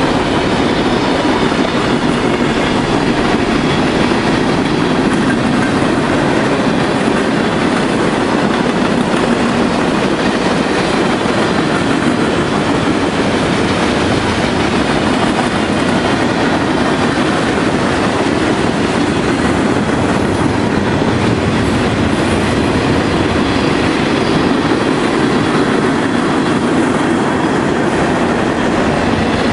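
Freight cars of a mixed train rolling past at speed: steel wheels on the rails make a steady, loud rolling noise with no let-up.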